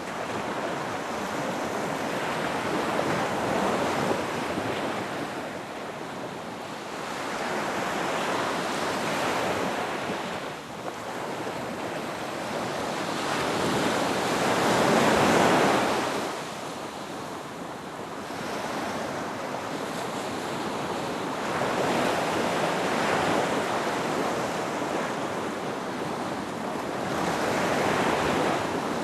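Ocean surf breaking on a beach: a steady wash of waves that swells and fades every five or six seconds, with the loudest wave about halfway through.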